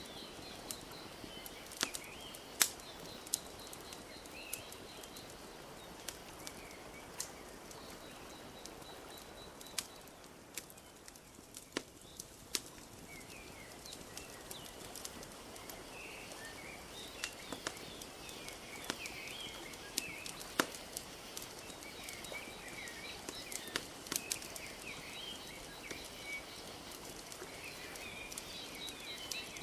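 Wood fire crackling with sharp, irregular pops over a steady soft wash of lapping lake water, with small birds chirping now and then.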